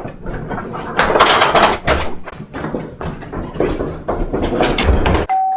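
A loud, irregular clattering and rustling commotion that stops abruptly, followed near the end by a two-note ding-dong doorbell chime that rings on and fades.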